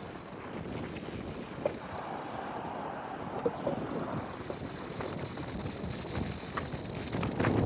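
Wind buffeting the microphone, a steady rushing noise with a few faint knocks scattered through it.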